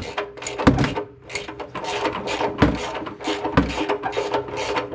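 Rapid clicking with a few dull knocks as the oil drain plug is worked out of the oil pan of a big-block V8.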